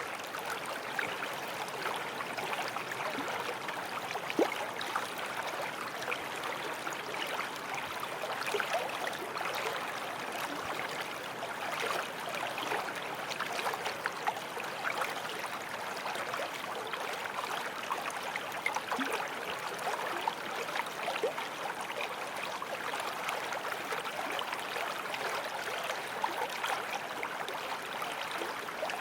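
Forest stream flowing and trickling over stones, a steady rush of water with small splashes and gurgles throughout.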